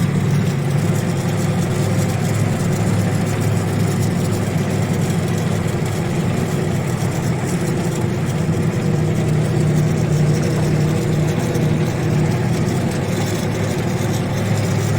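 ZIL-130 truck's V8 petrol engine running steadily under way, the truck laden with coal, with an even low hum and no change in pace.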